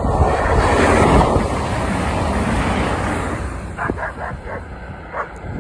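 A CrossCountry Voyager diesel multiple unit passing on the line: a broad rumble of engine and wheels on rail that builds to its loudest about a second in, then eases. Near the end comes a quick run of short, sharp sounds.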